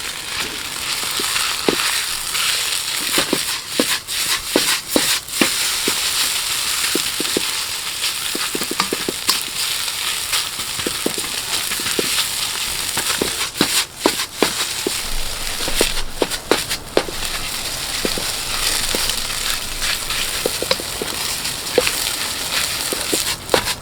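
Fried rice sizzling steadily in a wok over a campfire's high heat, with frequent sharp clicks and knocks of a ladle working against the wok.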